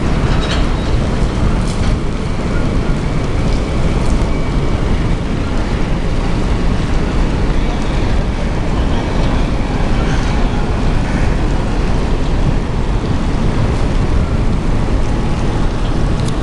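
Steady rumbling noise on a moving cruise ship: wind buffeting the microphone over the wash of the sea.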